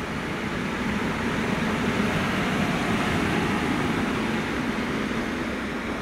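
A train passing on the line: a steady rolling rumble that builds to its loudest about two seconds in and eases a little near the end.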